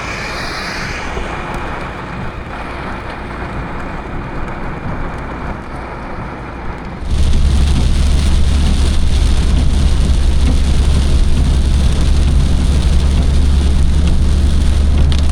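Rain and road noise heard from inside a car during a thunderstorm. About seven seconds in, the sound jumps suddenly to a much louder, steady low rumble and hiss.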